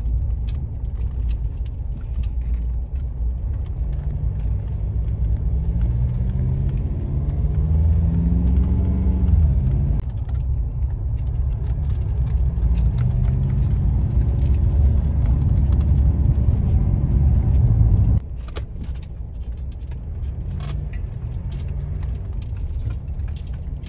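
Car engine pulling under load, its pitch climbing steadily, dropping abruptly about ten seconds in, then climbing again before the level falls off sharply near the end. Light rattles and clicks sound throughout.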